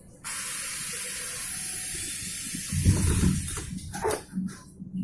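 Metro train's compressed-air system letting off a loud, steady hiss that starts suddenly and lasts about two and a half seconds, followed about three seconds in by a heavy low thump and rumble from the car.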